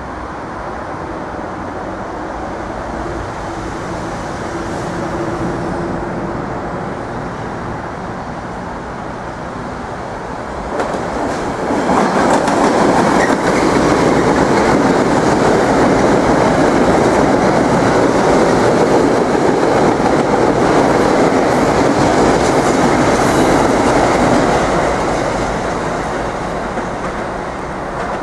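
Metro-North commuter train running past on electrified track. At first it is a steadier rumble with a faint hum. A little before halfway it turns loud as the coaches pass close by, wheels running over the rails, and it stays loud for about thirteen seconds before fading.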